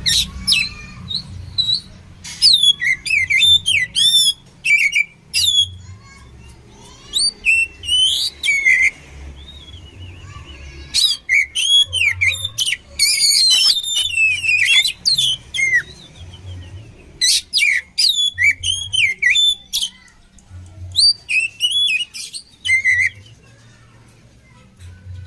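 Oriental magpie-robin (kacer) singing: bursts of rapid, varied whistled phrases with swooping and chattering notes, each burst a few seconds long with short pauses between.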